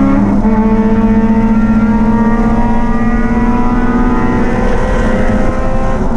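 Racing engine running hard at steady high revs. Its pitch steps up about a third of a second in, then holds, easing down slightly.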